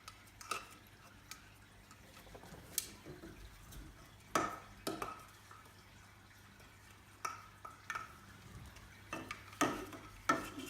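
Light clicks and knocks of a hard toy handled by a pet squirrel monkey, about eight or nine at irregular intervals.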